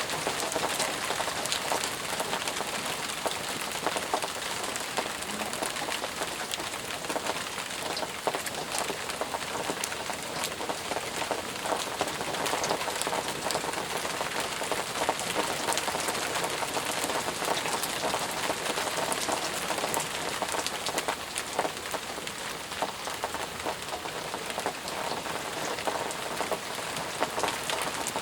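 Steady heavy rain pattering on surfaces, with many close individual drops ticking through the even hiss.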